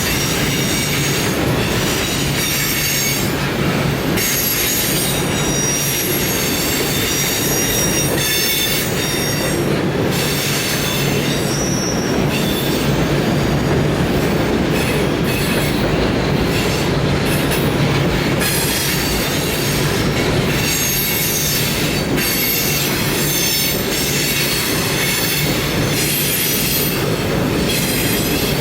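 Railroad cars rolling past with steel wheels squealing: several high-pitched squeals come and go and shift in pitch over a steady, loud rumble of the train.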